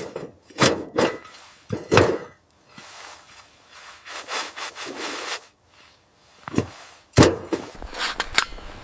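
A series of sharp crunching strokes, with a longer rushing scrape about four to five seconds in and a harder hit near the end.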